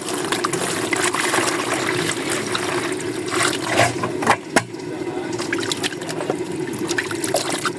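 Water running and trickling, with a sharp knock about four and a half seconds in.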